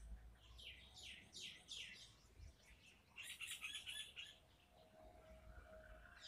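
Faint bird calls: a run of quick downward chirps in the first two seconds, then a short harsh chattering call about three seconds in.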